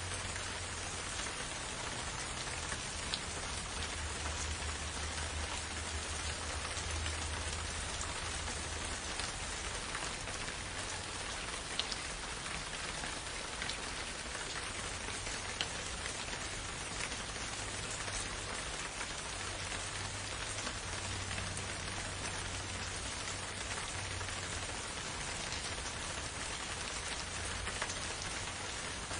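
Steady, gentle rainfall, an even hiss of drops with occasional sharper single drop ticks standing out.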